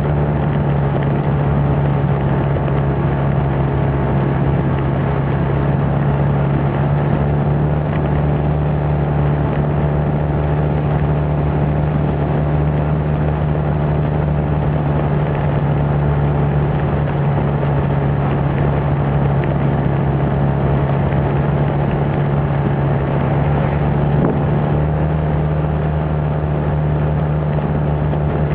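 Small motorbike engine running at a steady speed while riding, a constant low hum that holds one pitch, under a steady rushing noise.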